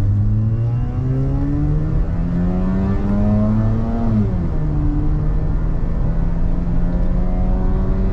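Mazda RX-8's 13B Renesis rotary engine heard from inside the cabin, accelerating hard in second gear. Its pitch climbs steadily for about four seconds, drops sharply, and then runs on at a steady lower pitch.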